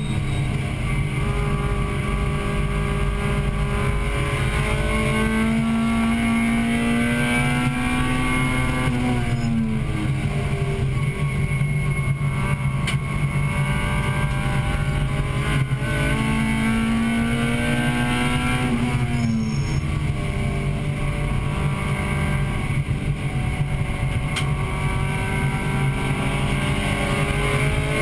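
Acura Integra Type-R's 1.8-litre four-cylinder VTEC engine running hard, heard from inside the cabin over a steady drone of road and tyre noise. Its pitch climbs steadily and drops sharply twice, about a third and two-thirds of the way through, as the car slows for corners.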